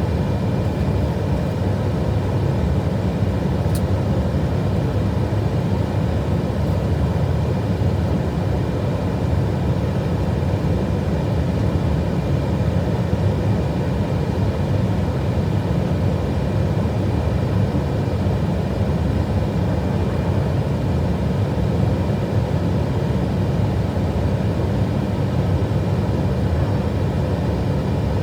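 Steady low rush of airflow and engine noise inside an Airbus A320 flight deck on final approach, unchanging throughout, with a faint click about four seconds in.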